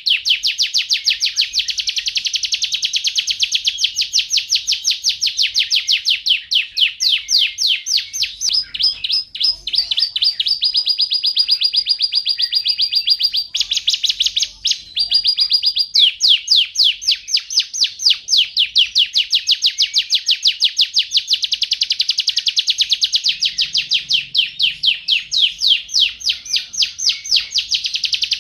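Domestic canary singing a long, continuous song of rapid trilled notes. About halfway through it holds a steady whistled note for a couple of seconds, then breaks briefly and goes back into fast trills.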